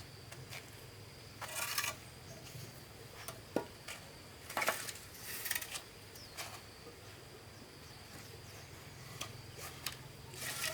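Scattered light knocks, clicks and short scrapes of handwork with wood or bamboo, a few seconds apart, over a faint steady insect drone.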